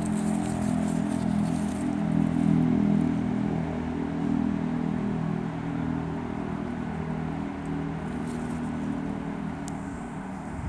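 A motor vehicle's engine running close by, a steady low hum that is loudest about two to three seconds in and then slowly fades.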